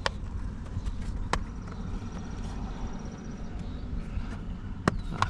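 Sharp plastic clicks and snaps as a steering-wheel trim cover is pried off its clips with a small metal pick: one at the start, one about a second later, and two close together near the end, over a low steady rumble.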